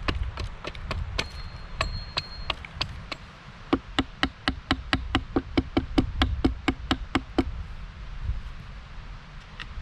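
A tool repeatedly striking wood, about three blows a second. Lighter strikes come first, then a louder run of about a dozen that stops about three quarters of the way through.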